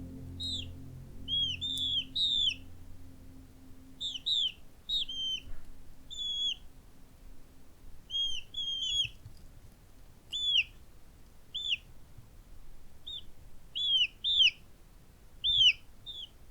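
A bird calling with short, sharp chirps that slide downward in pitch, given singly or in quick pairs and threes, over and over.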